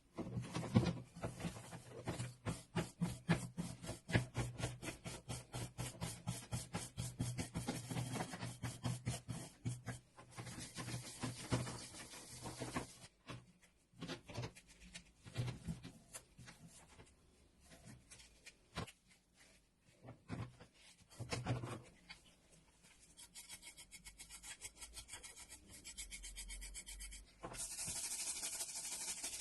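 Hand abrading of wood, sanding or filing, in quick repeated strokes, several a second for the first dozen or so seconds, then slower and irregular, with a steadier rubbing hiss near the end.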